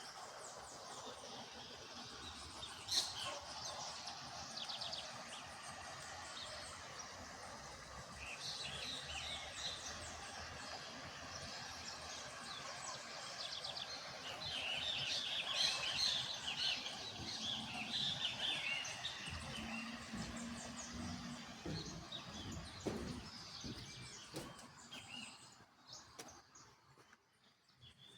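Several wild birds chirping and trilling over a steady background hiss, busiest in the middle, with the sound dying away near the end.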